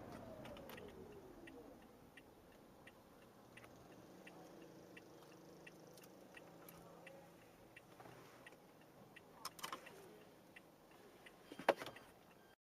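Inside a car, a turn-signal indicator ticking evenly about one and a half times a second under a faint cabin hum. A few louder clicks come near the end, then the sound cuts off suddenly.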